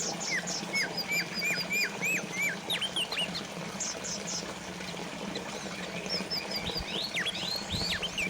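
Small songbirds chirping in quick runs of short down-slurred notes, with higher notes in between, over the steady trickle of a water fountain and a low steady hum.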